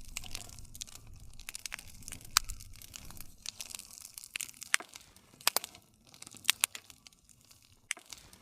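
Campfire of burning wood crackling: irregular sharp snaps and pops, a few much louder than the rest, over a low steady rumble.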